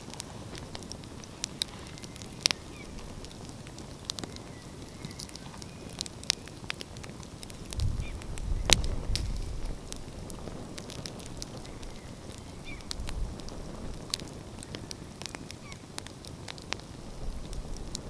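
Wood fire crackling, with scattered sharp pops. A low rumble swells about eight seconds in and fades a couple of seconds later.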